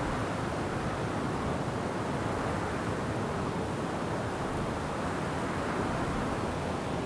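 Wind blowing steadily through forest trees: an even, continuous rushing noise with no separate gusts, drops, bird calls or creaks standing out.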